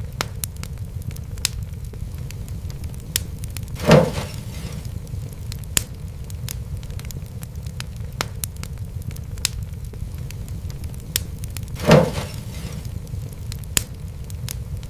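Fireplace fire crackling over a steady low rumble, with scattered sharp snaps and two louder pops, the first about four seconds in and the second some eight seconds later.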